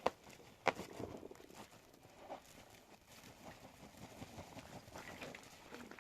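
Two sharp knocks, one at the start and one under a second later, then irregular light knocking and scuffing.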